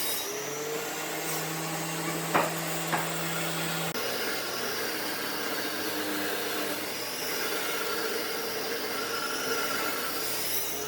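Electric power tool running steadily on wood, its hum changing pitch about four seconds in, with two sharp knocks a little over two and three seconds in.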